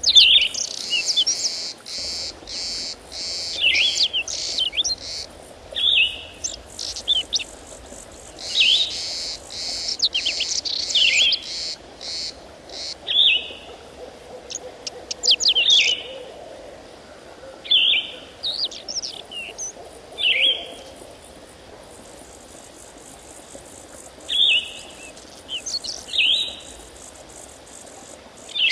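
Songbirds singing, short high chirping phrases repeated every second or two, with a high steady buzz in some stretches.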